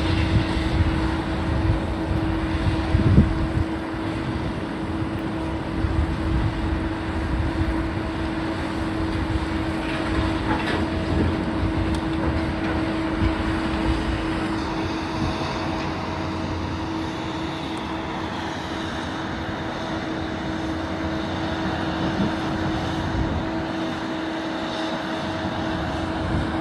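Heavy demolition machinery running with a steady hum, over a low rumble with a few faint knocks.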